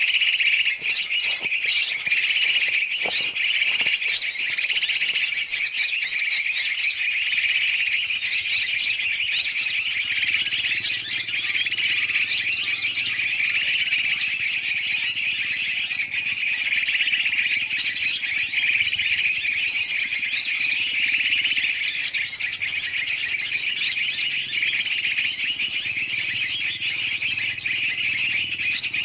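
A dense, unbroken chorus of many birds chirping and chattering over one another. This is a bird-lure recording that mixes large and small birds' calls to attract birds.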